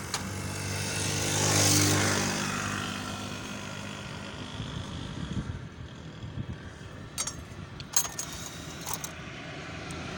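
A passing motor vehicle's engine swells to its loudest about two seconds in, then fades away. It is followed by a few sharp metallic clinks about a second apart.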